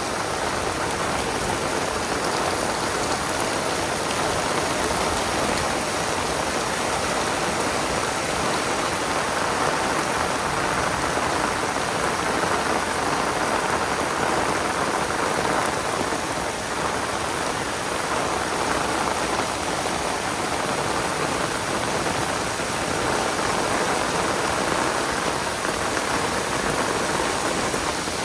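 Heavy rain pouring down steadily, a dense, even hiss of rain on surfaces.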